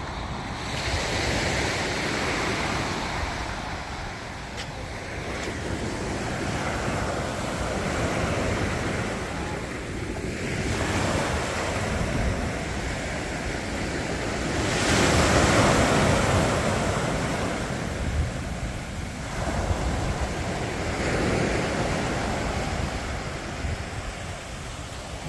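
Sea waves breaking and washing on a beach, swelling and falling every few seconds with the loudest surge about fifteen seconds in, with wind rumbling on the microphone.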